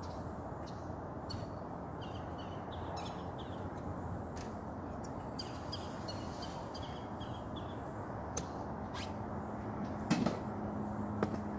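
Outdoor dawn ambience: a steady distant rumble of traffic with scattered short bird chirps throughout, a few sharp clicks, and a low steady hum coming in near the end.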